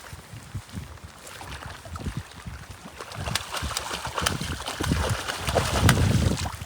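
Strong gusty wind buffeting the microphone. From about halfway through, irregular sharp ticks and taps come through the wind.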